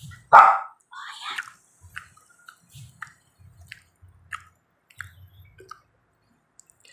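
Close-up eating sounds of a person biting and chewing fried street food off a skewer: wet mouth clicks and soft chewing thumps. One louder sound comes about half a second in, and the chewing thins out near the end.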